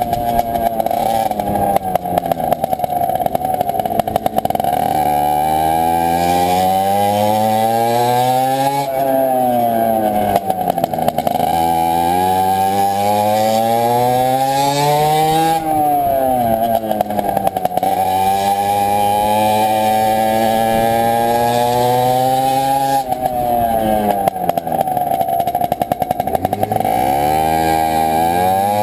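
CPI SM 50's 50cc two-stroke engine running with the rear muffler removed, loud and raspy. The revs climb, drop sharply and climb again several times, with steadier stretches in between.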